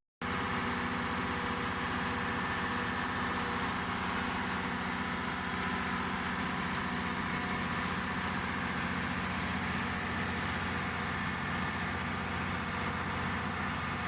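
Cummins 6BT5.9-G2 inline six-cylinder turbo diesel engine running at a steady speed after an oil change, circulating the fresh oil before the level is rechecked.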